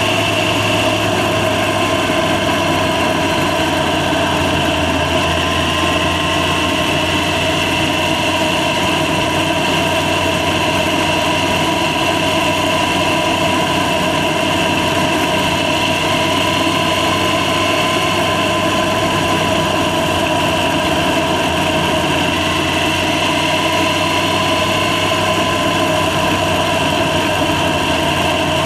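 Yamaha FZ6's inline-four engine running steadily, its pitch drifting gently up and down.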